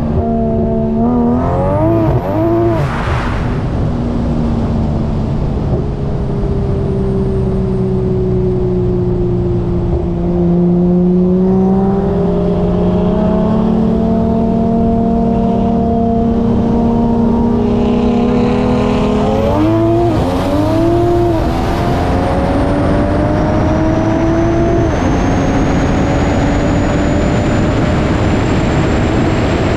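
Single-turbo built BMW M4's 3.0 straight-six running hard at speed. The engine pitch sweeps up quickly twice, about two seconds in and about twenty seconds in, and otherwise holds fairly steady, with a faint high whistle.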